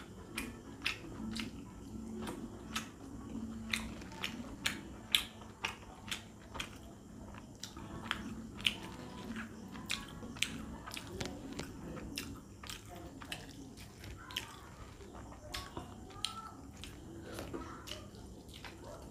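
A person eating chicken curry with rice by hand close to the microphone: wet chewing and lip-smacking mouth sounds with frequent, irregular sharp clicks.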